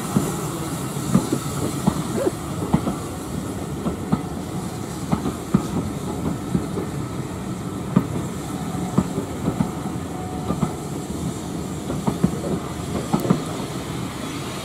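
Train wheels running on the rails, a steady rumble broken by frequent sharp, irregular clicks and knocks over the track.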